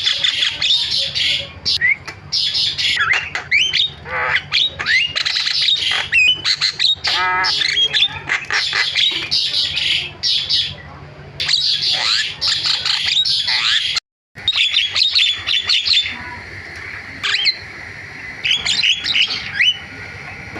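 Javan myna (jalak kebo) singing a fast, chattering string of harsh squawks, whistled glides and chirps, cutting out for a moment about two-thirds of the way through and then carrying on.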